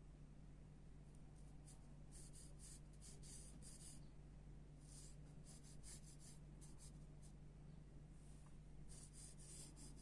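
Graphite pencil scratching on paper in runs of quick short strokes, with short pauses between the runs, over a faint steady hum.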